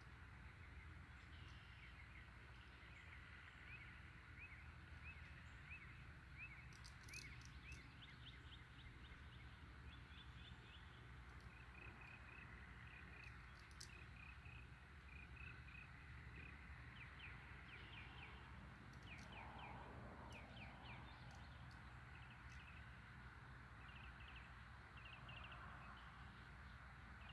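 Faint birds chirping in short, repeated clusters, over a steady low rumble.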